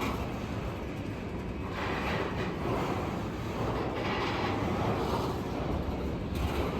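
Container freight train hauled by a VL80S electric locomotive rolling past: a steady rumble of wheels on the rails, with swells of louder hiss as the wagons go by.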